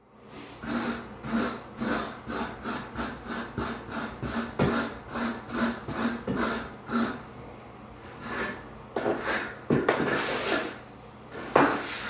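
Float blade scraping across dry-pack shower pan mortar in quick repeated strokes, about two to three a second, then a few longer scraping passes near the end.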